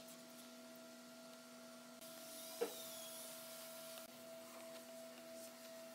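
Faint steady hum, with a soft hiss rising about two seconds in and one sharp click a little before the middle.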